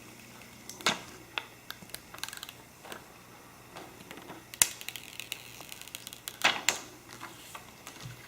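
Packaging and accessories from an iPhone X box being handled: a string of irregular sharp clicks and taps with light rustling. The loudest clicks come about four and a half and six and a half seconds in.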